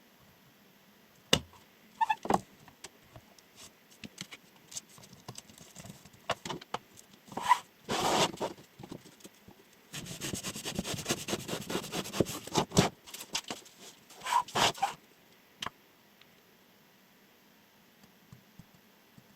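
Chef knife making sharpness-test cuts and being handled: scattered clicks and short scraping cuts, with a dense run of quick crisp ticks lasting about three seconds in the middle.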